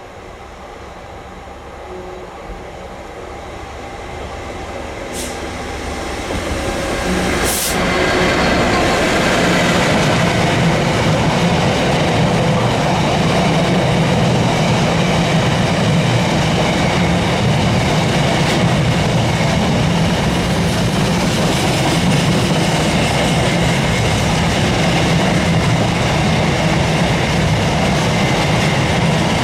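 Diesel-hauled freight train approaching, growing louder over the first seven or eight seconds, then passing close by with a steady rumble of locomotive engine and wagon wheels on the rails. Two sharp clicks as it nears.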